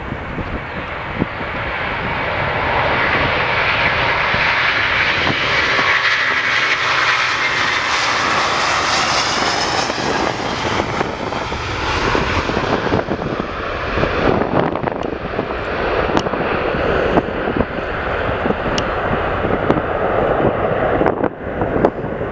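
Jet airliner passing by on the runway: its engine roar swells over the first few seconds, peaks with a sweeping, phasing hiss, then dulls as it moves away. Wind buffets the microphone with gusty rumbling in the second half.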